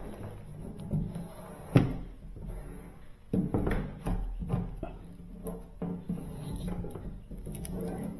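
Duct tape being pulled and pressed into place by hand, with a sharp knock about two seconds in and rasping, rustling handling bursts after it. Faint music underneath.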